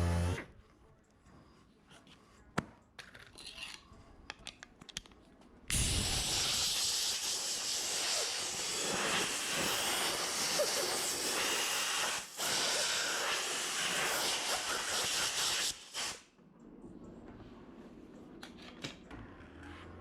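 Pressurized spray hissing from a nozzle in one long blast that starts suddenly, breaks off for a moment about halfway through and stops sharply near the end. Before it come a few light clicks and taps.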